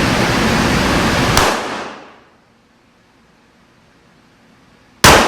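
A steady rushing noise cuts off with a click about a second and a half in, then near the end a single sharp, loud gunshot rings out at an indoor gun range.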